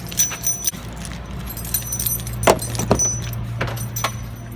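Keys jangling with several sharp clicks over the steady low hum of a car running.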